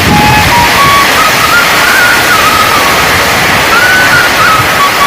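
Heavy rain falling in a steady, loud hiss, with a thin single-line melody of held notes that step up and down in pitch over it.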